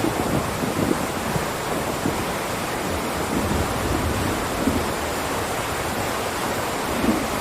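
Steady rain, a dense even hiss, with low rumbling swells underneath from a thunderstorm.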